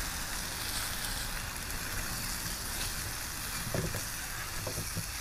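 Vegetables frying in spiced red curry paste in a skillet: a steady sizzle, with a few light knocks toward the end.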